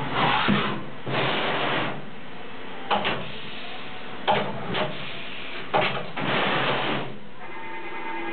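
A UJH450 horizontal machining centre with a rotary table at work: hissing bursts of about a second each, with sharp clicks and knocks between them.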